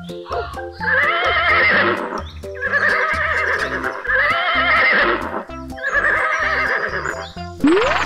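Four recorded horse whinnies, each about a second long with a wavering, trilling pitch, over children's background music with a steady beat. A quick rising whistle-like glide comes near the end.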